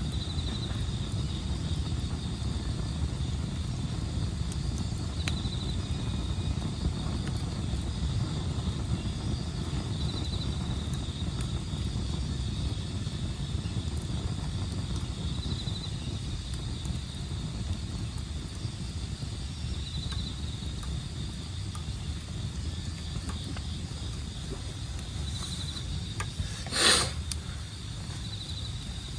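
Campfire burning with occasional faint crackles and one loud sharp pop near the end, over a steady low rumble. An insect gives a short high chirping trill about every five seconds.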